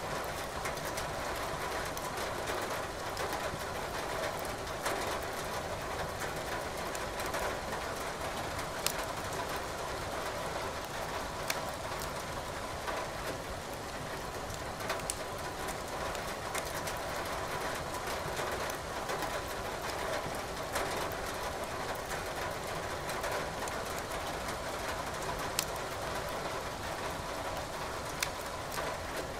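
Steady rain hiss with a wood fire crackling in a fireplace, its sharp pops scattered irregularly over the even noise.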